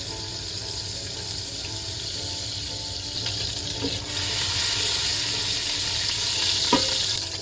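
Oil and butter sizzling in a cooking pot as they heat, a steady hiss that grows a little louder about four seconds in.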